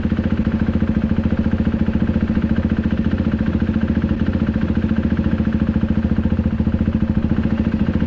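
A KTM RC 390's single-cylinder engine idling steadily, with an even, rapid pulse and no revving.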